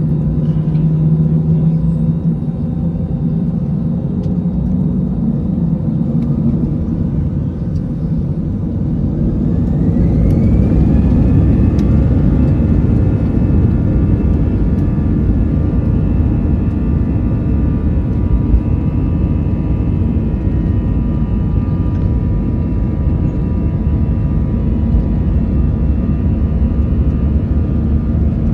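Airbus A320 jet engines spooling up to takeoff thrust: a whine rises about ten seconds in and settles into several steady high tones over a loud, continuous rumble.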